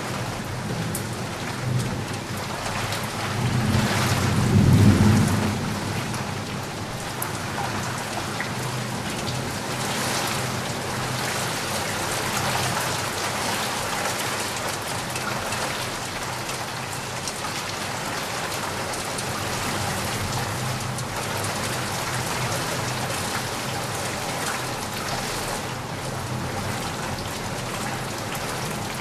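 Heavy rain falling steadily. About three seconds in, a low roll of thunder swells, peaks, and dies away within a few seconds.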